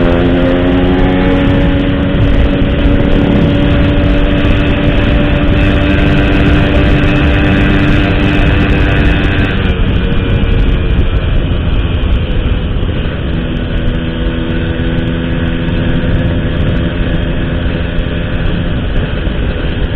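Motorcycle fitted with an Altech C17 aftermarket exhaust running along at cruising speed, with heavy wind rumble on the microphone. The engine note holds steady, eases off about ten seconds in, and picks up again a few seconds later. The exhaust is not noisy.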